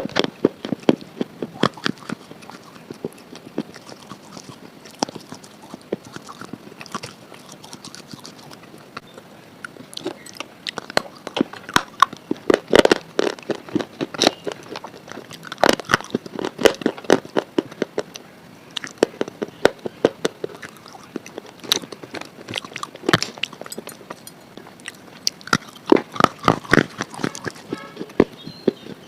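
Someone biting and chewing something brittle close to the microphone: a dense, irregular run of sharp crunches and cracks that comes in bouts, thickest about a third and halfway through and again near the end.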